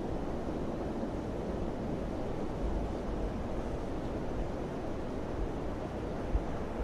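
Steady wind blowing, a dense low rush with deeper rumbling gusts that swell and ease.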